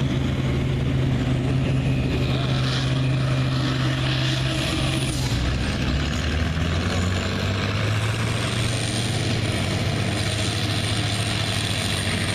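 Pulling tractor's diesel engine running hard under load as it drags the weight sled, with a thin high whistle above it. The engine note drops slightly about halfway through and then holds steady.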